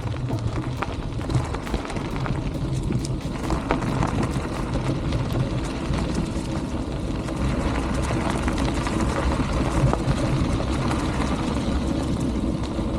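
Wind rushing over the microphone and bicycle tyres rolling on a dirt trail while coasting downhill, with a steady low rumble and scattered small clicks and rattles from the bike.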